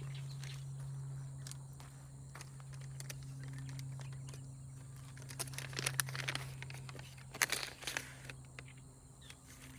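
Scattered rustling and crinkling of hands handling seeds and plant material, busiest about five and a half to eight seconds in, over a steady low hum.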